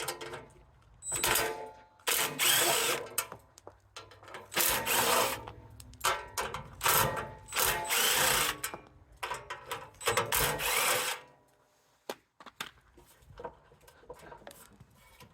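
Cordless drill-driver running in about six short bursts, its motor whine rising and falling, as it backs out the screws holding a side panel on a snowblower; quieter handling of the panel follows near the end.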